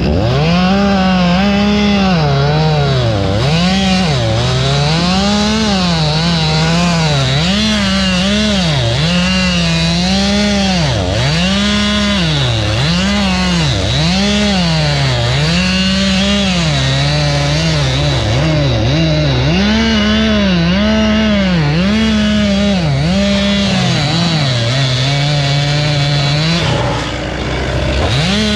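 Two-stroke chainsaw running hard through wood, its engine pitch repeatedly dropping and climbing again, about once a second, as it loads up in the cut and frees.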